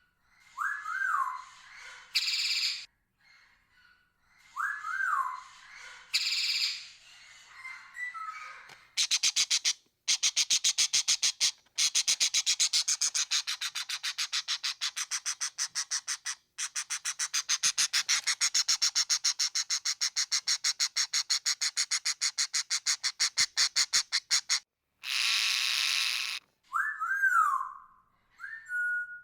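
Parrot calls: short whistles that rise then fall, harsh squawks, and a long stretch of rapid, evenly repeated chattering notes in the middle.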